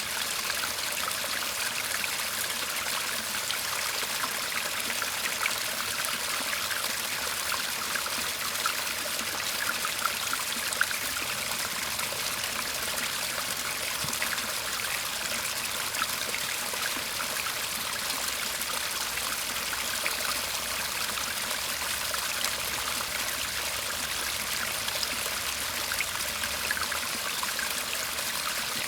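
Shallow garden stream murmuring and trickling steadily over stones.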